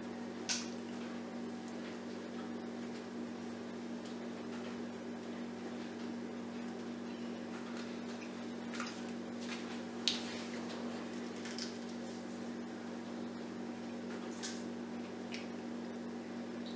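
Steady low hum with a few short, faint clicks and smacks scattered through: a person chewing a soft bread roll and handling it.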